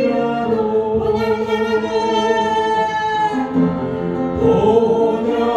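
Congregation singing a Korean worship song in unison with instrumental accompaniment, holding long sung notes.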